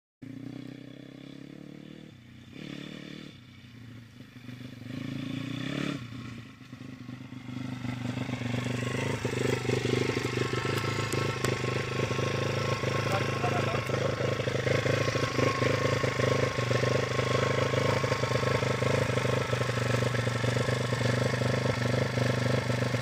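Pit bike's YX 160 cc single-cylinder four-stroke engine running. It is quieter and uneven with a few brief dips for the first several seconds, then louder and steady from about eight seconds in.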